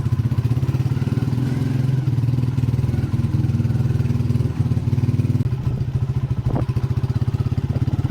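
Engine of a Chinese-made motorcycle running steadily with a fast, even firing pulse; its note shifts about five and a half seconds in.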